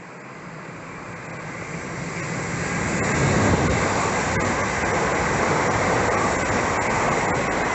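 Main line train approaching and passing at speed: wheel and rail noise grows louder over the first three seconds or so, then holds as a steady loud rush with occasional faint clicks.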